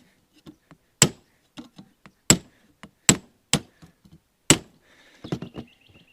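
Hammer striking a cold chisel along a roof seam to bend it: five loud, sharp blows at uneven intervals, with lighter taps in between and a flurry of small clicks near the end.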